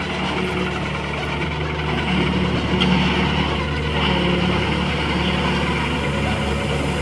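Diesel engine running steadily, a little louder from about two seconds in.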